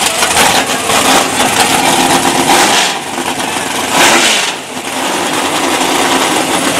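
Race car engines running at idle, with one loud rev about four seconds in that falls away quickly.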